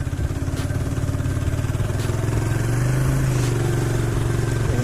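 A motor vehicle engine running steadily on the road. It swells a little about three seconds in, with a few faint clicks over it.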